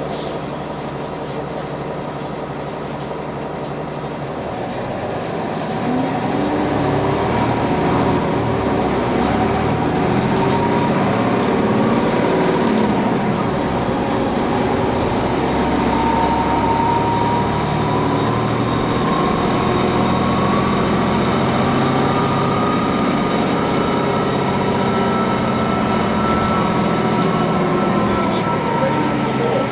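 NovaBus TL-40102A low-floor transit bus running: the engine sits at a steady low level for the first few seconds, then grows louder about six seconds in as the bus pulls away and speeds up, with a drivetrain whine rising in pitch partway through.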